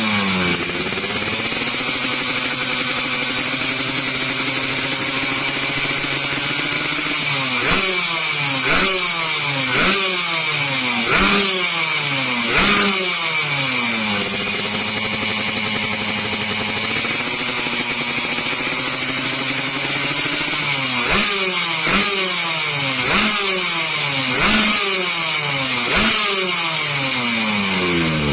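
Yamaha RX King's 135 cc two-stroke single-cylinder engine idling through its exhaust, with two runs of about five quick throttle blips each: the pitch jumps up and falls back every second or so, with steady idling in between.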